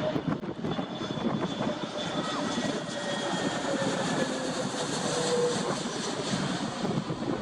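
Airbus A320 jet airliner passing on its landing approach: engine noise with whining tones that slowly fall in pitch.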